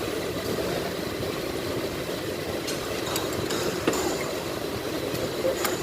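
Steady engine-like rumble, with a few light metallic clicks of hand tools about three to four seconds in and again near the end.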